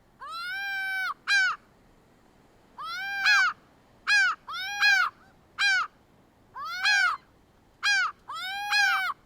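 An animal calling over and over: about eight loud, clear-pitched calls, each rising then falling in pitch, the longer ones about a second and the shorter ones a fraction of that, with short quiet gaps between.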